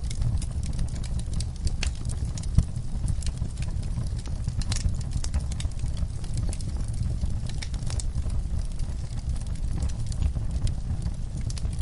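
Wood fire burning in a fireplace: a low steady rumble of flames with irregular sharp crackles and pops, one louder pop about two and a half seconds in.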